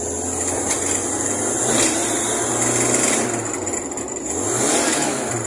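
Fiat 147 race car's four-cylinder engine running as the car drives, heard from inside the cabin. The engine note rises around four seconds in.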